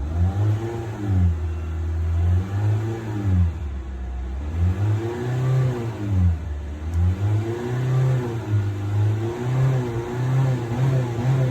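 A 2020 Honda Civic's engine revved repeatedly, its pitch rising and falling: a few slower swells, then a run of quicker blips in the second half.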